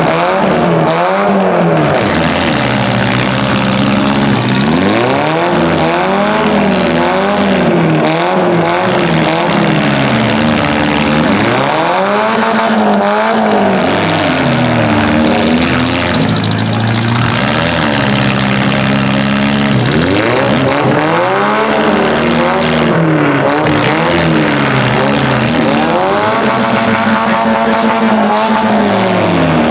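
Several compact-car engines in a demolition derby heat, revving up and down over and over as the cars drive and ram one another, their pitches rising and falling against each other.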